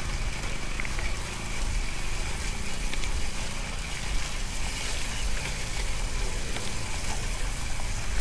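Wind buffeting the microphone, a heavy uneven rumble, over a steady rushing hiss.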